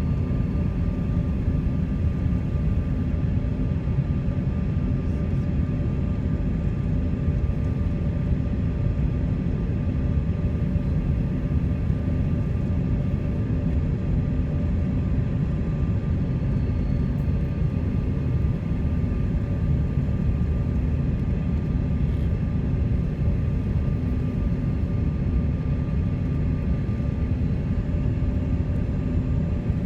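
Steady drone of a passenger airliner heard from inside the cabin: engine and airflow noise with a constant low rumble and a few steady hum tones, unchanging throughout.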